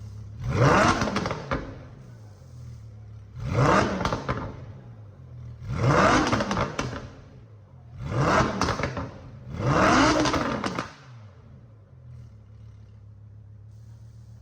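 Lamborghini engine idling and revved five times through its swapped exhaust, each rev rising and falling back to idle within about a second. The revs come roughly every two seconds, and the engine settles back to a steady idle near the end.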